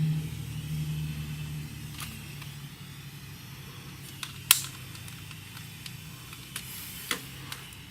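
A low engine-like hum that fades away over the first two seconds, then a faint background with a few sharp clicks and taps, the loudest about halfway through.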